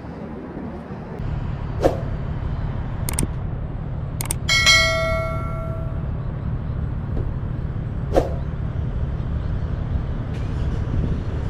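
Low steady rumble of a boat under way, with a few sharp knocks and one metallic clang about four and a half seconds in that rings on for about a second and a half.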